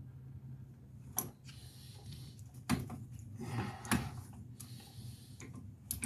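A few sharp metal clicks and knocks from hand tools working a stuck part on the wheel hub, spaced a second or more apart, with short scraping stretches between them, over a low steady hum.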